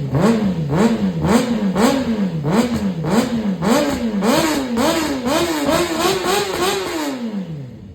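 Honda CBR600RR inline-four motorcycle engine being revved in quick throttle blips, about two a second, each rise falling straight back. Near the end the revs are held a little higher, then drop away to idle.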